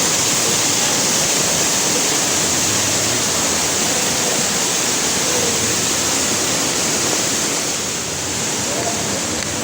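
Steady rush of water from an indoor greenhouse waterfall, an even hiss that does not let up.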